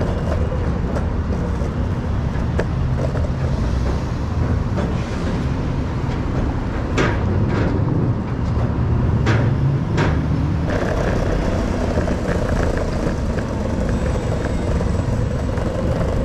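Steady low rumble of a motor vehicle running, with a few sharp clicks about seven and ten seconds in and a change in the running sound near eleven seconds.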